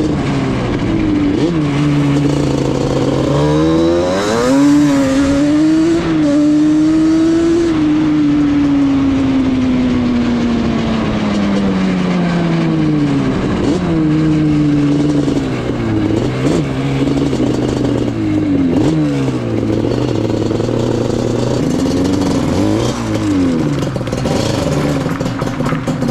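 Yamaha Banshee's twin-cylinder two-stroke engine running with the revs rising and falling: a climb about four seconds in that eases slowly back down, then a string of short blips of the throttle.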